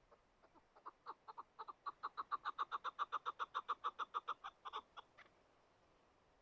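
Chukar partridge calling: a series of clucks that starts slow and faint, speeds up and grows louder to about six a second, then breaks off about five seconds in.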